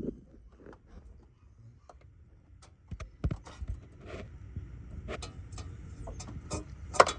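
Scattered light clicks and metal taps from hand tools (a 13 mm socket and a magnetic pickup) working on the starter mounting bolts, with a sharper click near the end.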